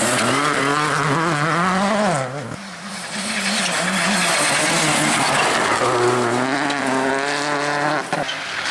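Rally car engine at full throttle on a special stage: the revs climb, the driver lifts off briefly about two and a half seconds in, then the engine pulls hard again with rising revs until a sharp cut near the end, like a gear change or a lift for a corner.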